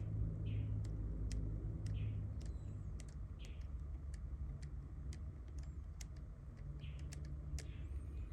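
Light scattered clicks and taps of small parts being handled, about one or two a second, over a low steady hum.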